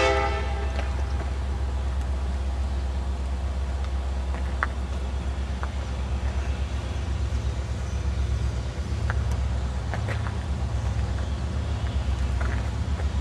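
The last of a K5LAR24 five-chime air horn blast dying away in the first half second, then the deep, steady, pulsing rumble of an EMD SD70-series diesel-electric locomotive's two-stroke engine as it passes slowly. A few brief high squeaks break through the rumble.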